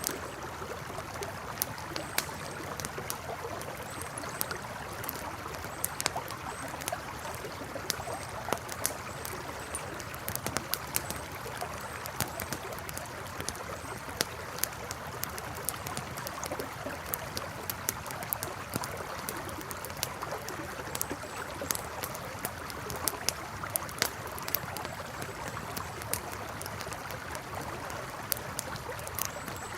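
River water flowing steadily, with a wood campfire crackling over it in irregular sharp pops and snaps.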